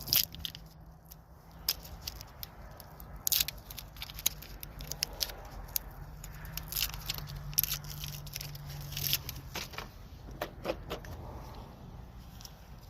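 Scattered sharp clicks, knocks and scrapes of hand tools at work on a flat tire, the loudest about three and a half and seven and a half seconds in, over a low steady hum.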